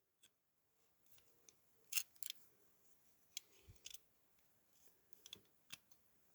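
Faint scattered clicks and light knocks of small metal parts being worked loose, as the door and spring plate of a diecast toy car are prised out of its body.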